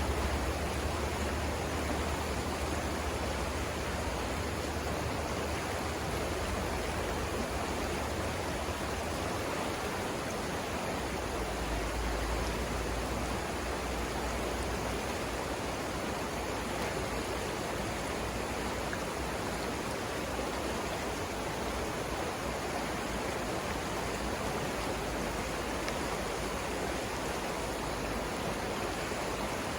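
River rapids rushing steadily: a continuous, even wash of flowing water, with a low rumble underneath that shifts about ten seconds in.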